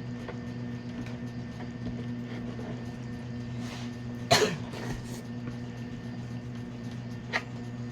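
A man coughs once, loudly, about halfway through, over a steady low hum; a short sharp sound follows near the end.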